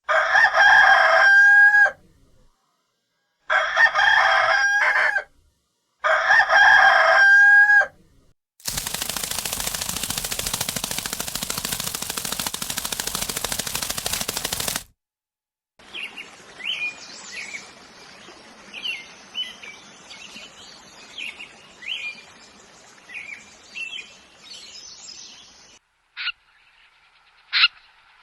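A rooster crowing three times, each crow ending on a held note. Then a steady hiss of about six seconds, followed by a run of short bird chirps.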